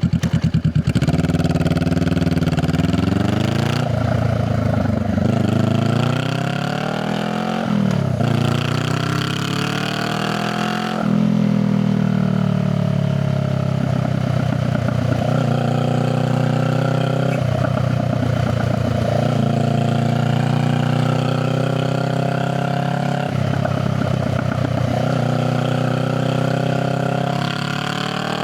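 Honda Rebel 500's parallel-twin engine and exhaust pulling away from idle, the pitch rising through three gears with a drop at each upshift, then cruising at a steady pitch with brief dips as the throttle eases.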